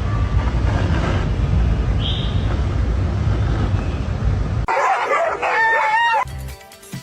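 A loud, steady low rumbling noise stops suddenly after nearly five seconds. A rooster then crows once, a pitched call that bends up and down for about a second and a half.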